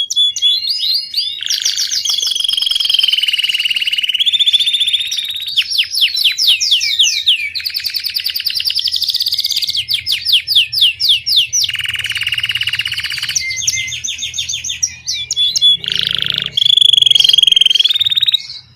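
Domestic Belgian canary singing a long, unbroken song in the campainha (bell) style, alternating fast trills of repeated notes with held ringing whistles. The song stops just before the end.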